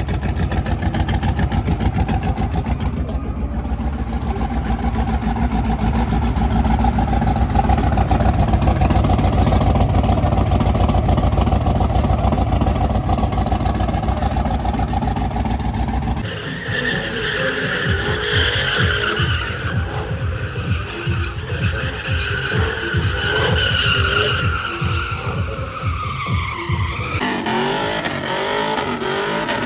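Twin-turbo limousine doing a burnout: the engine is held at high revs while the rear tyres spin and squeal. About halfway through the sound changes abruptly to a falling tyre squeal over the throbbing engine, and it changes again near the end.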